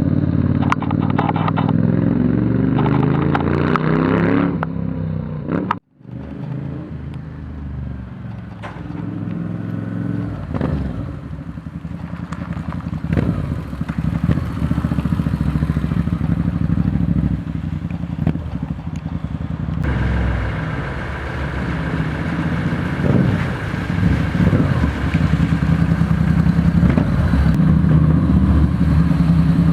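Moto Guzzi V65 Florida V-twin motorcycle engine running through its custom exhaust while being ridden, its pitch rising and falling with the throttle. The sound drops out briefly about six seconds in and changes character at about twenty seconds, after which the engine grows steadily louder.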